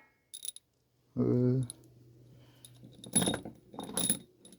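Small steel engine screws clinking against each other and against metal as they are handled: a light clink near the start, then two clusters of ringing clinks about three and four seconds in.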